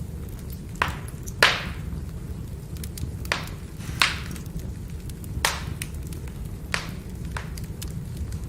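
Burning firewood: a steady low rush of the fire with sharp crackling pops, about seven of them, the loudest about a second and a half in, and fainter ticks between.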